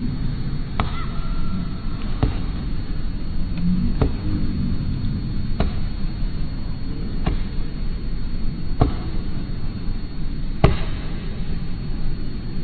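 Pileated woodpecker chiselling into a tree trunk with its bill: single sharp knocks, about eight of them, spaced one and a half to two seconds apart, over a steady low background rumble.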